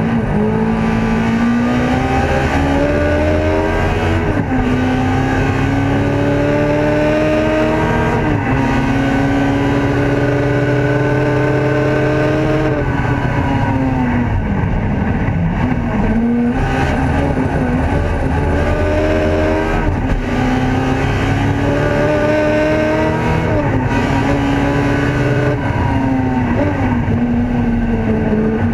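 Ford Escort race car's engine heard from inside the cabin, revving hard up through the gears. The pitch climbs and drops sharply at each upshift, about every four seconds. It falls away for a few seconds midway, then climbs through the gears again.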